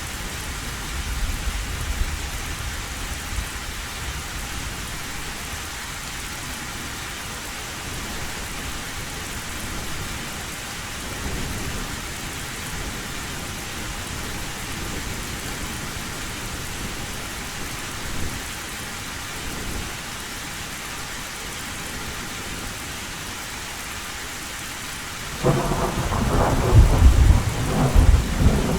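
Heavy rain falling steadily on an old tin roof, with low thunder rumbling faintly at the start and a few weaker rumbles later. Near the end a loud peal of thunder breaks in suddenly and rolls on.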